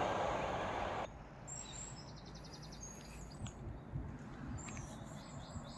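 The noise of a passing train fading, cut off suddenly about a second in; then small birds chirping, with one quick trill, over a faint low rumble.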